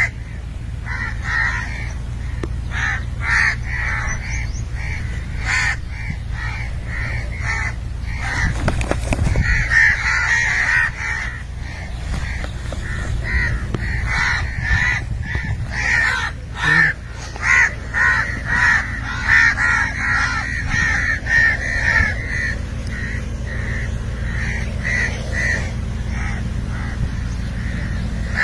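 Birds calling: many short calls repeated in quick succession, busiest through the middle, over a steady low hum.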